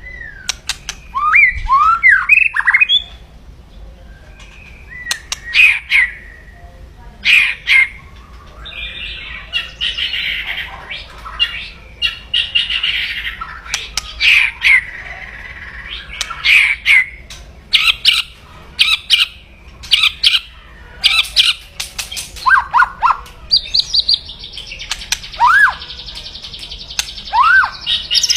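White-rumped shama (murai batu) giving its loud, harsh 'kretekan' crackling call: rapid dry clicks and rattles mixed with short rising whistles, with two longer harsh, buzzy stretches, one in the middle and one near the end. It is the aggressive call of a bird in full fighting form, used to provoke rival shamas.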